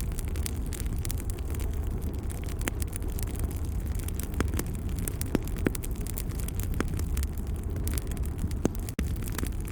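Wood fire crackling, with many small pops and a few sharper snaps over a steady low rumble of the flames; the sound drops out for a split second near the end.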